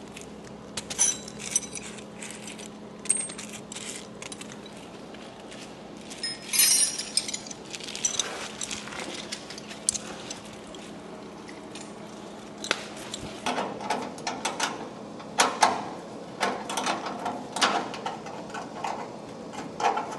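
Hand ratchet wrench clicking as body bolts are backed out, with scattered metallic clinks; the clicking comes in quick runs in the second half.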